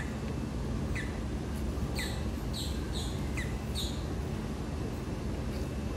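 Short, high chirps that fall in pitch: one at the start, another about a second in, then a quick run of about five between two and four seconds in. Under them runs a steady low rumble of background noise.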